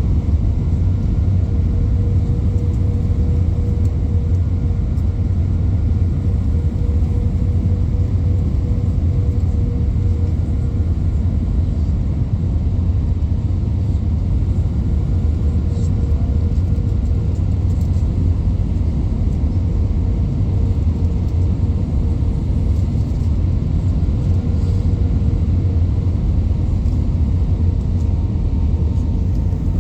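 Airliner cabin noise in flight: a loud, steady low rumble with a faint steady engine tone running through it.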